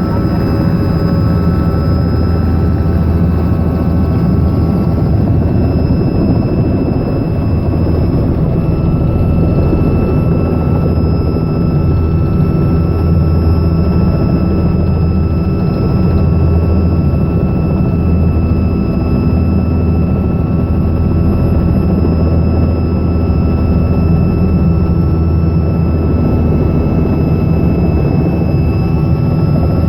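Robinson R66 helicopter running steadily: its turbine engine and rotor make a loud, even drone with steady high whining tones held on top.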